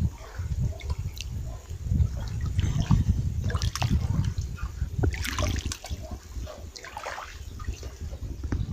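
River water lapping and splashing irregularly against the Volga shoreline, over a low, uneven rumble.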